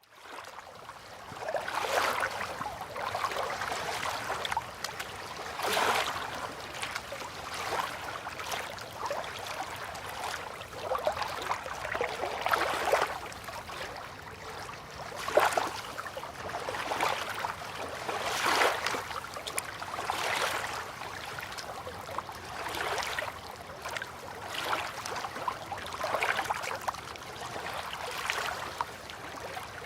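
River water lapping and splashing at the shore in small irregular surges every second or two. It fades in over the first second.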